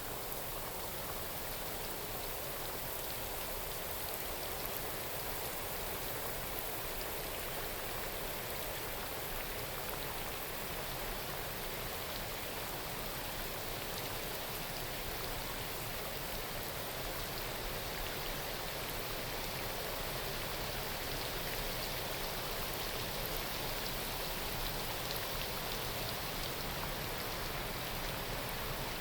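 Steady rain falling on forest foliage, an even hiss of many raindrops with no change in intensity.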